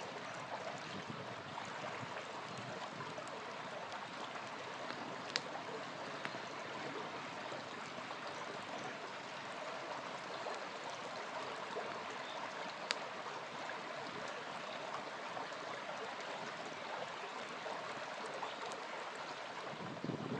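Steady rush of a small river flowing, with two sharp pops of a campfire, one about five seconds in and another a little past halfway.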